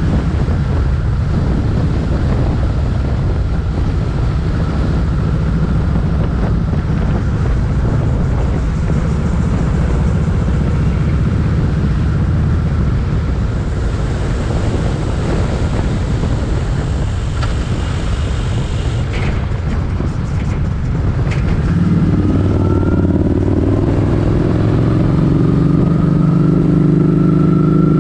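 Motorcycle engine running on the road under a steady rush of wind noise. A little after two-thirds of the way through, the engine note grows louder and climbs as the bike accelerates.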